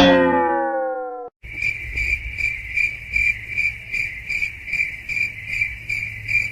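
A sudden tone with many overtones that slides down in pitch for about a second. Then a cricket chirps steadily and evenly, about two and a half chirps a second, over a low hum.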